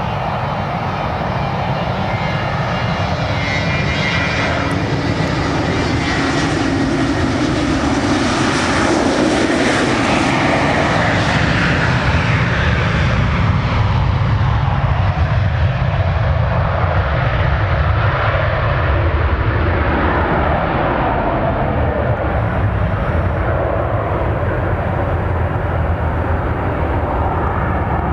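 An airliner's jet engines passing close by as a continuous loud rumble. The high hiss swells to its peak about ten seconds in and then fades, while the deep low rumble builds and carries on.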